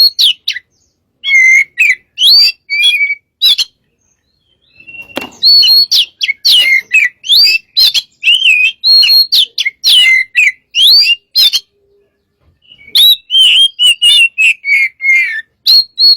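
Oriental magpie-robin singing loudly in quick phrases of whistled and chirped notes, with pauses of about a second between some phrases.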